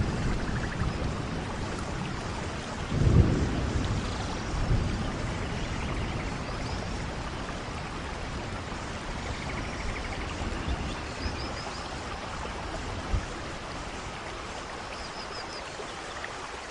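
Steady rainfall in a rainforest, an even hiss of rain, with a brief low rumble about three seconds in and a few faint high chirps later on.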